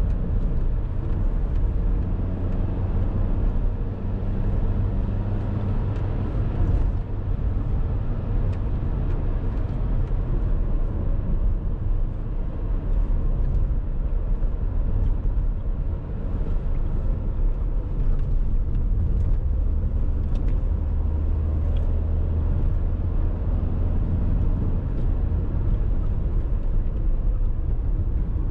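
2017 Dacia Duster's 1.6 SCe naturally aspirated four-cylinder petrol engine running under way, a steady low drone over road and tyre noise, its note changing a few times.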